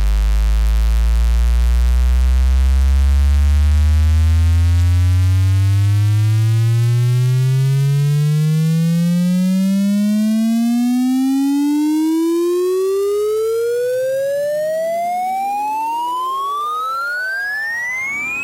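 Synthesized sine-like tone sweep, starting as a deep bass tone and gliding steadily upward in pitch to a high whine over about eighteen seconds, with fainter overtones rising above it. It eases slightly in loudness near the end.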